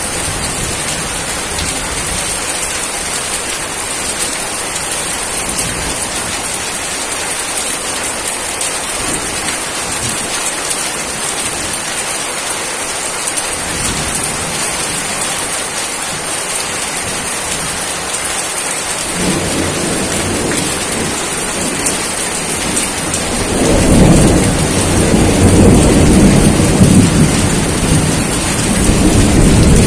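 Steady rain falling, with a low rolling rumble of thunder that sets in about two-thirds of the way through and grows loud toward the end.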